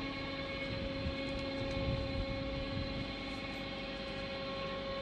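Electric-motor-driven screw cone log splitter running, with a steady motor whine on several even tones and uneven low knocking beneath.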